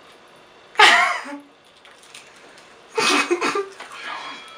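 Two short vocal outbursts from people eating chocolate-covered potato chips: a sudden cough-like burst about a second in, then another, more drawn-out vocal sound about three seconds in.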